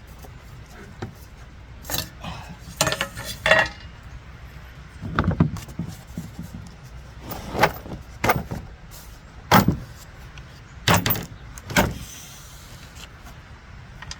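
A series of separate metallic clinks and knocks, irregularly spaced, from tools and metal parts being handled while working on a lawnmower; a few of the clinks ring briefly.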